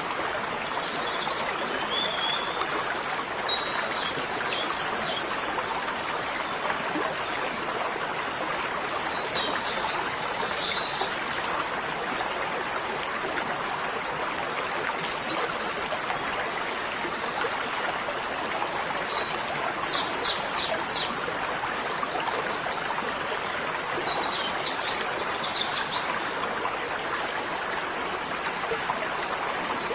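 Steady rush of running water like a stream, with a bird singing a short chirped phrase about every five seconds.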